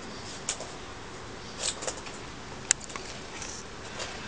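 A few short, sharp clicks scattered over a steady background hiss, the loudest a little under three seconds in.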